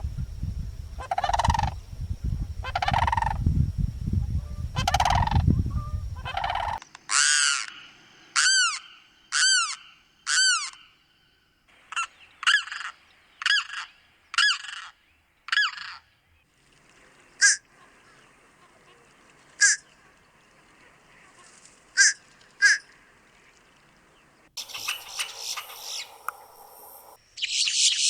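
Wild bird calls from several species in turn. First comes a repeated honk-like call about once a second over a low rumble. Then there is a run of clear down-slurred notes and a scatter of short sharp calls, with a harsh chattering call near the end.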